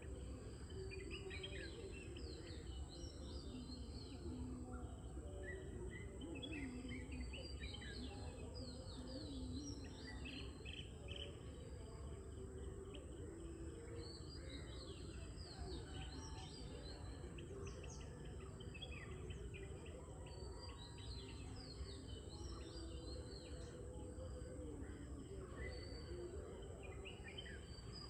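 Many small birds chirping, in quick clusters of short falling notes, over a steady low background noise and a constant high thin tone.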